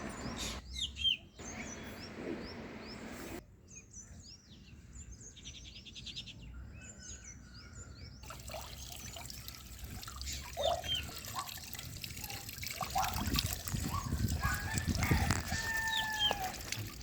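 Birds chirping and calling in many short, quick notes, with a few longer whistled calls near the end. The sound cuts abruptly between several short recordings.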